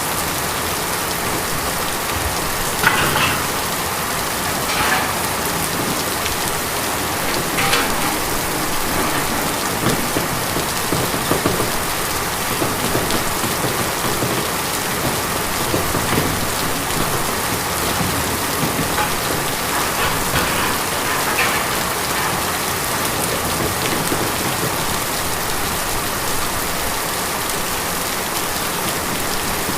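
Steady rain falling on a tin roof, an even patter with a few louder drops striking the metal now and then.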